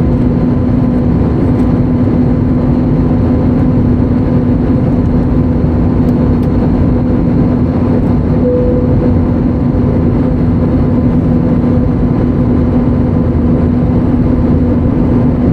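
Steady cabin noise of an Airbus A320neo: an even engine and airflow drone with a constant low hum, unchanging in pitch and level.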